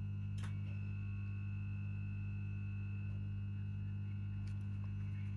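Steady electrical hum of a ScotRail Class 334 electric multiple unit's transformer, a deep even drone with no change in level. A short click about half a second in is followed by a faint steady high whine over the hum.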